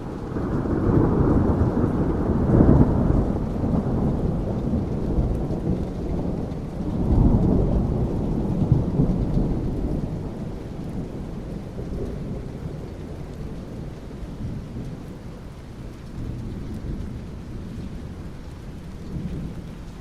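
Thunder rumbling over steady rain: a long low rumble that swells about a second in, rolls again about seven seconds in, then dies away while the rain carries on.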